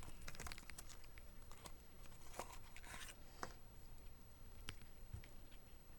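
Faint scattered clicks and a couple of short crinkling scrapes from hands handling small phone parts and the battery.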